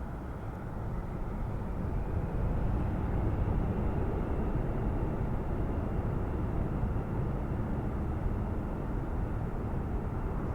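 Jet engines of a departing Airbus A320 airliner: a steady rumble that swells a little in the first few seconds and then holds, with a faint high whine.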